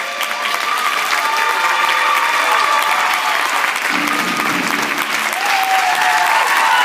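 Audience clapping, with music still playing underneath.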